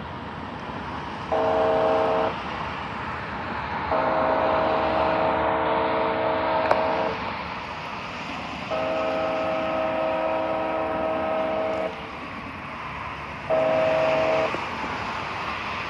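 Locomotive air horn sounding its chord in a grade-crossing pattern: a short blast, then two long blasts and a short one, over a steady rumble of the train. This is the standard long-long-short-long warning for a road crossing.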